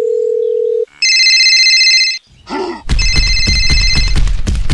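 A telephone call: a steady dial tone that cuts off just under a second in, then a phone ringing twice. The second ring comes with a rapid bell-clapper rattle.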